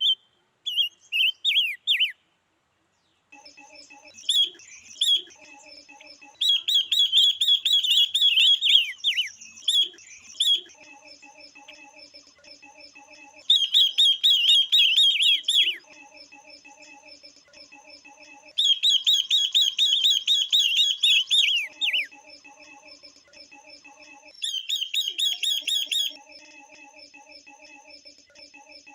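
Female silver-eared mesia and female red-billed leiothrix calling: bursts of rapid, high chirps a few seconds long, repeated about every five seconds, with a fainter, lower pulsing chatter between the bursts. These are female calls used to stir male birds into singing.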